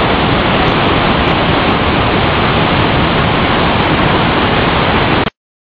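Steady, loud rush of the Velo de Novia waterfall, an even noise of falling water that cuts off suddenly about five seconds in.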